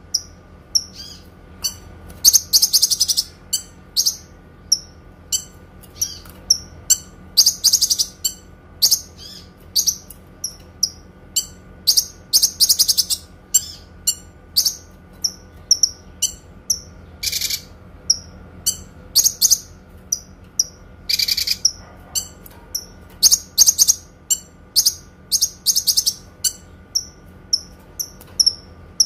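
Kinoi songbird singing: a long run of short, high, clear chirps, about two or three a second, broken now and then by brief rapid trills. A faint steady hum runs underneath.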